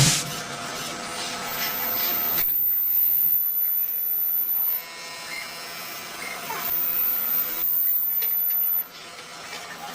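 CNC lathe at work: a steady mechanical hiss with a very high, thin whine. It gets louder for two stretches of about three seconds each, the first from about one and a half seconds in, the second from about seven seconds in.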